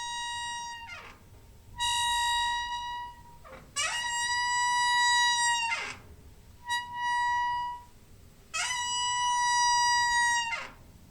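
A squeaking door hinge giving a string of long, high squeals, about five in all, each lasting one to two seconds. Several slide up in pitch as they start and drop in pitch as they end.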